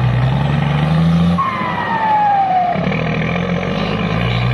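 Dump truck engine pulling hard through the gears: the revs climb, drop sharply at a gear change about a second and a half in, then climb again. A high whistle falls in pitch just after the change.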